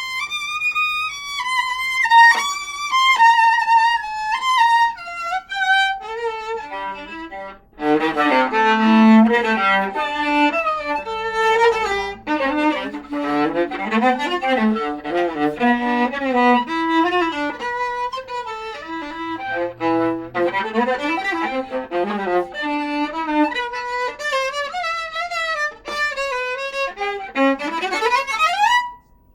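Viola playing a bowed melodic passage of held and moving notes, at times with more than one note sounding together. There is a short break about eight seconds in, and it ends with a quick rising run.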